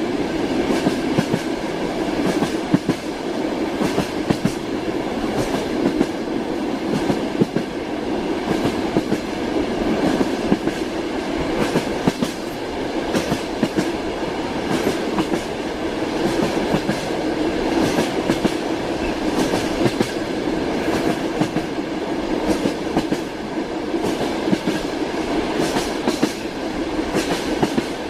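Train wheels clattering over the rails, heard from inside a railway carriage: a steady rumble with frequent sharp clicks running through it.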